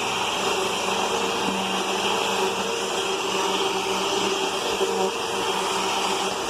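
Hoover UH71250 Whole House Rewind upright vacuum cleaner running steadily while vacuuming the floor, a constant motor hum with a few held tones over the rush of air.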